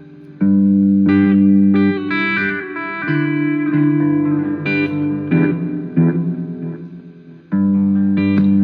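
Guitar playing chords and notes: a chord struck about half a second in, further notes that die away about seven seconds in, then another chord struck near the end.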